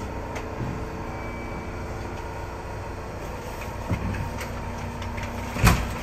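Steady electrical hum inside a train car standing at an underground platform. A couple of knocks come about four seconds in, and near the end there is a loud bump and rustle of a jacket close to the microphone.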